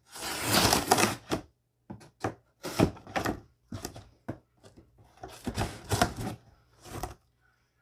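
Benchmade pocketknife slicing through packing tape and cardboard on a shipping box, in a string of irregular scraping, tearing strokes, the longest about a second long near the start.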